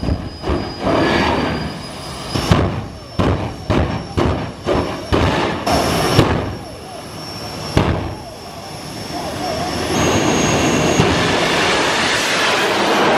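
Car meet noise: a rapid series of sharp bangs and pops over the first eight seconds or so, like exhaust pops from revving engines. From about ten seconds in this gives way to a steady loud rush of engine and crowd noise, with a thin high whine running through it.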